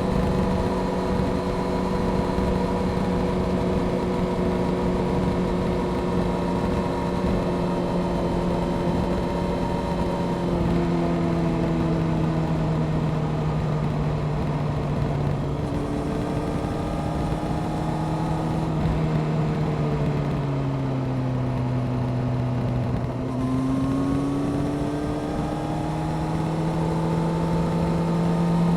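Honda CBR600F Sport's inline-four engine through a Delkevic aftermarket exhaust, held at steady revs for about ten seconds, then easing down in steps as the throttle comes off. The revs climb again over the last few seconds and drop sharply right at the end, with a steady rush of wind noise throughout.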